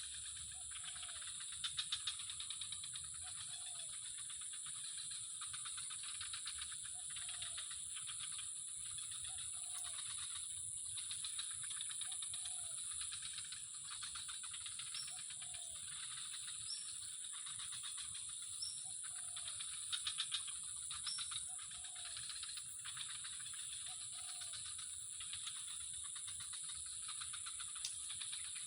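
Outdoor animal chorus: insects shrilling steadily, with a short low call repeating about every one and a half to two seconds. Brief clusters of clicks come about two seconds in and again about twenty seconds in.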